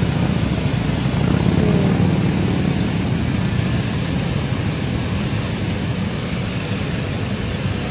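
Many police motorcycles riding past together in a procession, their engines blending into one steady low rumble that eases off slightly after a couple of seconds.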